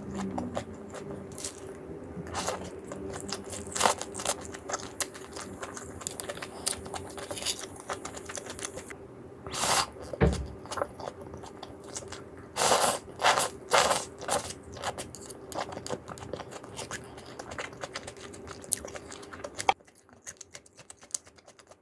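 Close-up crunching and chewing of sauced boneless fried chicken, with bites coming every second or so and a burst of louder crunches a little past the middle. A steady low hum runs underneath and stops near the end.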